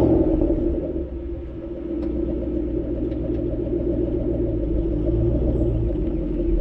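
Ford Mustang GT500's V8 engine running at a steady idle, loudest right at the start as it catches, then settling to an even rumble.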